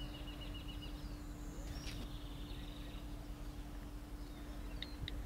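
Quiet woodland background with songbirds calling: a short trill at the start, another about two seconds in, and a few sharp chirps near the end, over a steady low hum.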